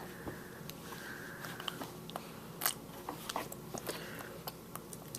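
A baby's small wet mouth and lip-smacking sounds while being spoon-fed puréed sweet potato, with scattered soft clicks.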